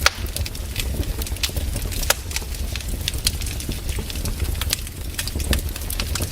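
Wood fire in a fireplace crackling, with irregular sharp pops over a steady low rumble; a louder pop comes right at the start and another about two seconds in.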